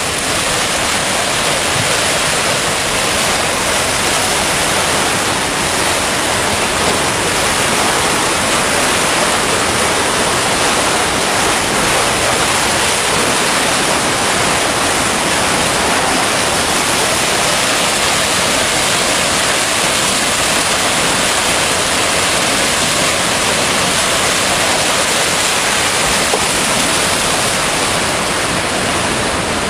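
Steady, loud rushing noise of a typhoon's storm wind and water, with no let-up or surging.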